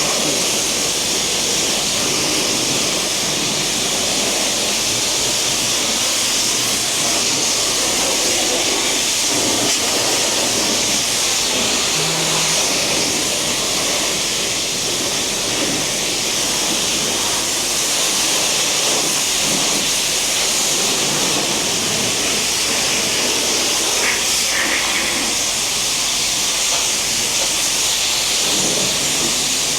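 Steady hiss of a water spray hitting a car as it is rinsed off.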